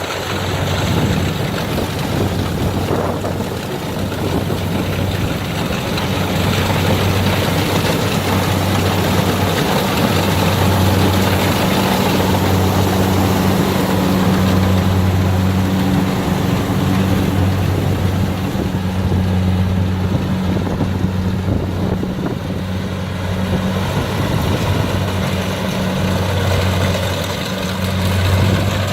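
Kubota DC60 combine harvester's diesel engine running steadily, with a low, even hum over a dense wash of machinery noise.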